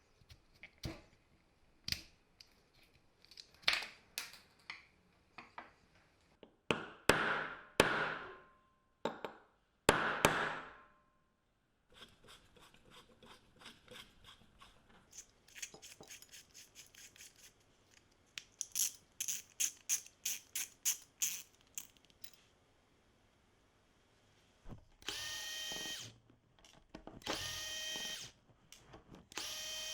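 Tools handling metal parts with scattered knocks and clicks, then a run of rapid light clicks. Near the end an electric drill motor runs in three short bursts of about a second each, with a steady whine.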